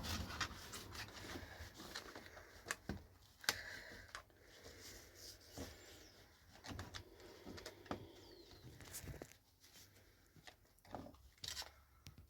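Faint rustling with scattered small clicks and taps of gloved hands rubbing paint into a piece of wire.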